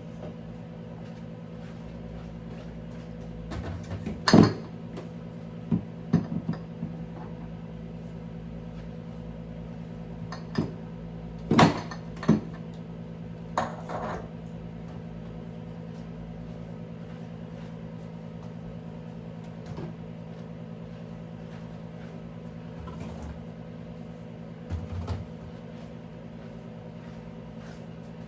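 Scattered knocks and clinks of dishes and containers being handled, two of them loud, over a steady low hum.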